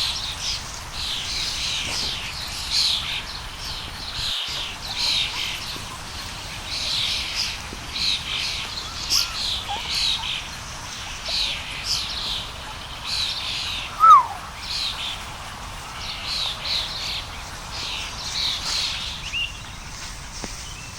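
Short, high-pitched falling chirps repeating one or two a second, with one louder, lower falling call about fourteen seconds in.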